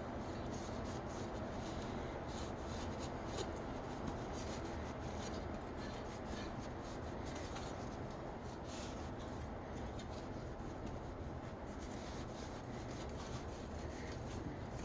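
Microfiber cloth dampened with isopropyl alcohol wiping over a bare-metal brake pedal and bracket: a faint, steady rubbing made of many small scratchy strokes.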